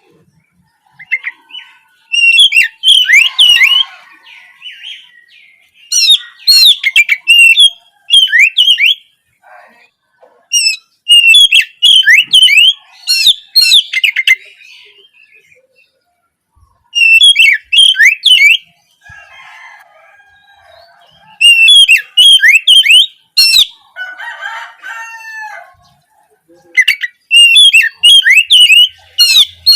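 Oriental magpie-robin (kacer) singing loud, fast phrases of sweeping whistled notes, about seven bursts of one to three seconds with short pauses between. Fainter, lower calls sound in two of the gaps.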